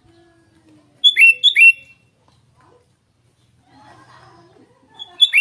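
Sooty-headed bulbul (kutilang) calling: a pair of loud, sharp, down-slurred notes about a second in, then another loud burst of notes near the end.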